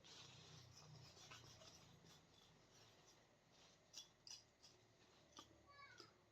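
Faint rustling and scraping, as of things being handled, with a few sharp clicks.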